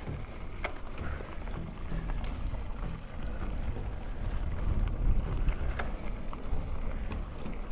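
Mountain bike rolling over a rough dirt trail: a steady, uneven rumble with wind buffeting the microphone, and scattered sharp clicks and knocks from the bike.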